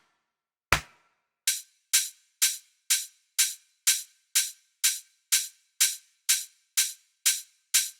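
A single electronic drum sample played on its own: a short, bright hit with little low end. It sounds a few times about a second apart, then from about a second and a half in it repeats evenly, about twice a second.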